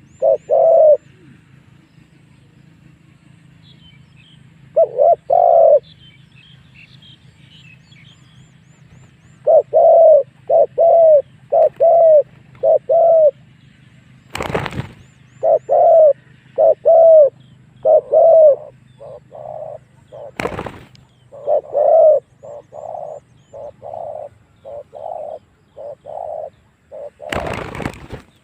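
Spotted dove cooing in repeated phrases of short, hollow coo notes, with a long, busier run in the second half; this is the call used as a lure to draw wild spotted doves in to fight. Two sharp clicks and a brief rush of noise near the end cut across it, and faint small-bird chirps sound early on.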